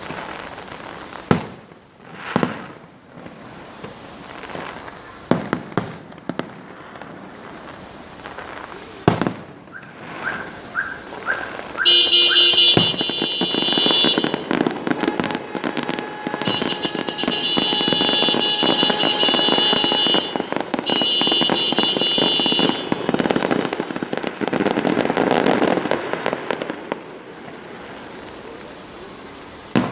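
Fireworks display: a few separate bangs with echoing tails, then about twelve seconds in a dense barrage of rapid crackling joined by shrill whistling tones that come and go. The barrage dies down near the end.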